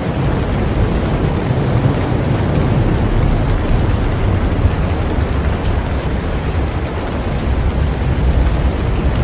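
Heavy rain falling on a boat: a steady, dense wash of noise with a deep rumble underneath.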